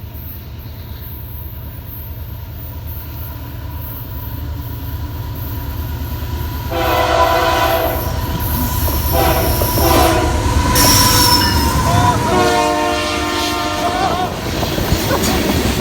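CP Rail freight train approaching, its low rumble building. From about seven seconds in, the locomotive horn sounds in several blasts, the last one long.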